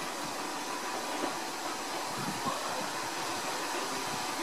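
Electric train running with a steady hiss and rumble, with no distinct clicks or bangs.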